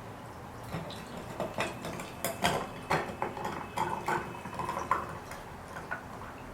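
Dishes and utensils handled in a kitchen: an irregular run of clinks and knocks, some with a brief ring, settling down near the end.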